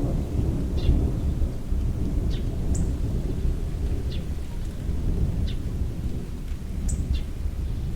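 Thunder rumbling low and long through steady rain, the rumble strongest at the start and slowly easing. Short high chirps sound now and then above it.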